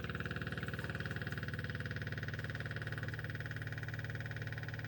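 Motor-driven fluid transfer pump running steadily after catching its prime, pumping a mix of waste engine oil and old diesel. It makes an even, fast pulsing with a steady whine over it.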